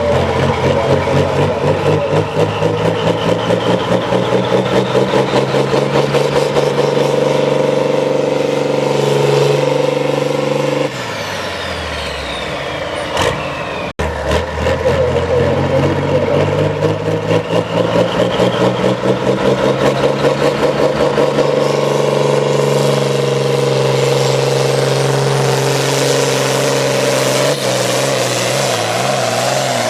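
Pulling tractor's engine running hard under full load, with a rapid pulsing beat and a high whistle climbing in pitch. About eleven seconds in, the engine drops off and its note falls as it winds down. After an abrupt break, the engine is again at full power with a rising whistle, easing off near the end.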